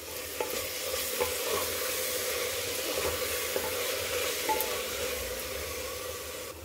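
Vegetables, spices and yogurt sizzling in the bottom of a pressure cooker while a wooden spatula stirs them, with a few light taps of the spatula against the pot.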